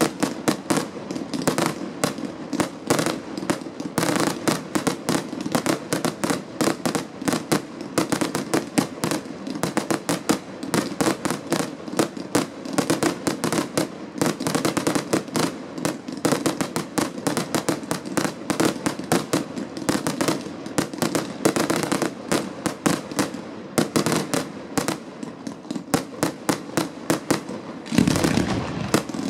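Aerial fireworks display: a rapid, unbroken barrage of many shells and comets bursting at once, in quick overlapping bangs and cracks, growing louder and deeper near the end.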